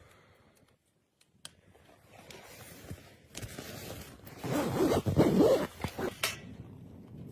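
A zipper being pulled with fabric rustling. It builds from about two seconds in, is loudest in the second half, and ends with a sharp final rasp just after six seconds.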